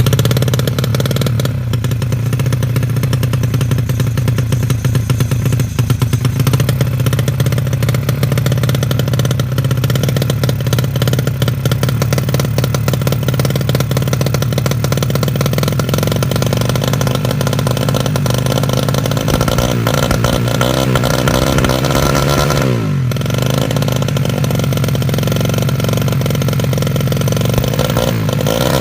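Yamaha Jupiter 110 motorcycle engine, tuned for drag racing, running loud and steady, then revved up and dropped back a couple of times in the last third.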